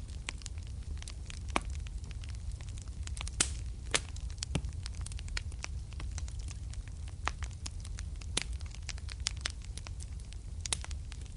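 Fire crackling in a fireplace: irregular sharp pops and snaps, some much louder than others, over a steady low rumble.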